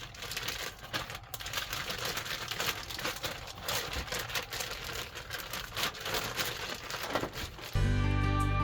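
Irregular crinkling and rustling from handling, like plastic packaging being worked. Acoustic guitar music starts near the end.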